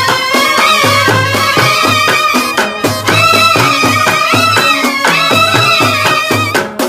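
Kerala festival street band playing a melody on wind instruments over a steady drum beat, with short breaks in the tune about three seconds in and near the end.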